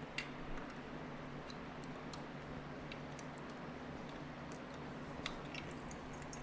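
Scattered light clicks and ticks, irregular and a few per second at most, over a steady low hum.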